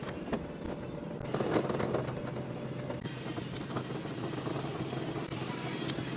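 A motor running steadily with rushing air, typical of the vacuum or blower equipment used to clean a dryer vent, with a few scrapes and knocks over it.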